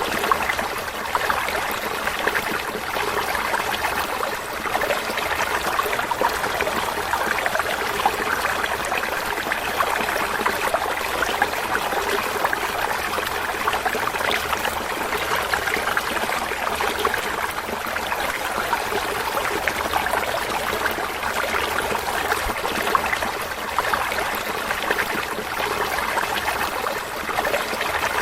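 Running water of a small stream, babbling and trickling steadily.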